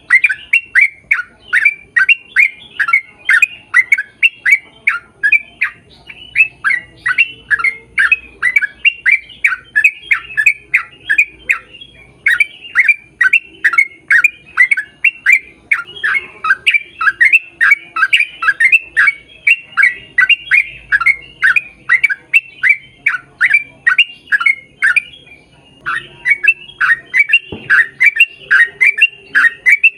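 A bird calling over and over: short notes that slide down in pitch, about three a second, with one brief break a few seconds before the end.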